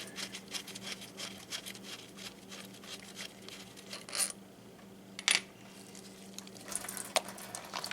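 A few sharp metallic clinks of small tools and metal parts as the oil burner pump's strainer housing is taken off, the loudest about five seconds in, over a steady low hum.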